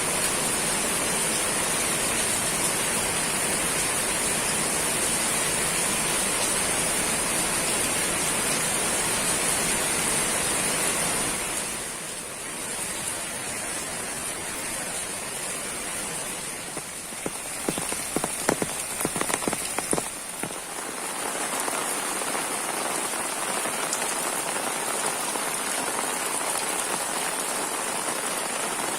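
Steady rain falling on surfaces. Partway through it eases and grows quieter, with a run of sharp, close drips around the middle, then the steady rain returns.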